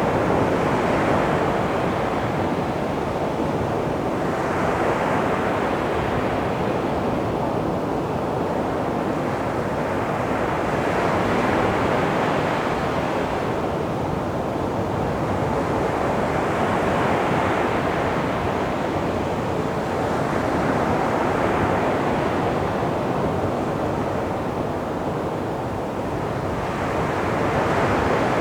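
Calm sea waves washing onto a beach, the surf swelling and easing about six times, every four to six seconds.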